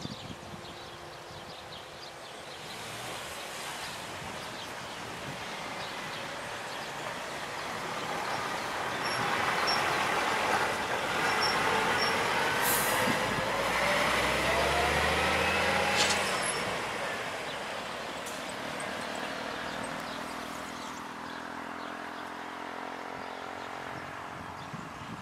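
A road vehicle passing the crossing, growing louder over several seconds to its loudest about ten to sixteen seconds in, with a rising whine, then fading away.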